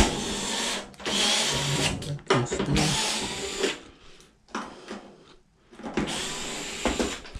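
Cordless power drill running in about four short runs, with a pause of about two seconds in the middle.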